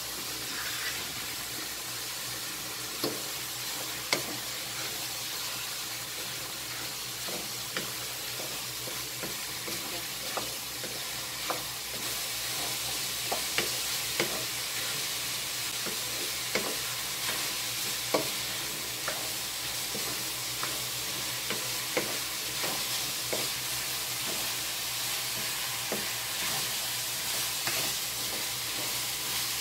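Ground meat sizzling in a frying pan while it is stirred, with scattered sharp clicks and taps of the stirring utensil against the pan. The sizzle grows a little louder about twelve seconds in.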